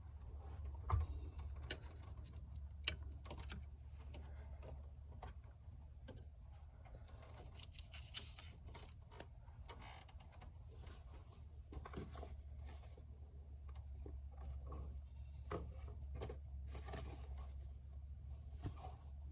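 Scattered light clicks and knocks of hand tools and engine parts being handled during spark plug and ignition coil work, over a steady low hum. Two sharper knocks come in the first few seconds.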